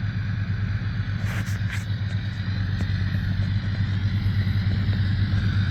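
A vehicle engine idling steadily, a constant low rumble, with a couple of faint clicks about a second and a half in.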